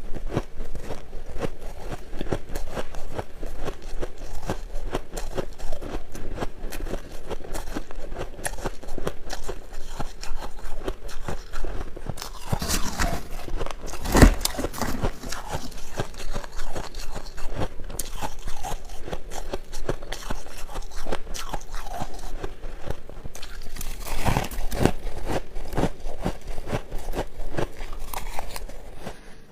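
Shaved ice being chewed close to the microphone: a continuous run of crisp, crackling crunches, with a few louder bites around the middle and again a little later.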